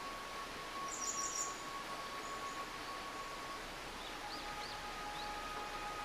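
Steady rush of a babbling stream with songbirds calling over it: a brief high trill about a second in and a few short rising chirps past the middle. Faint steady held tones sit underneath and change pitch about two-thirds of the way through.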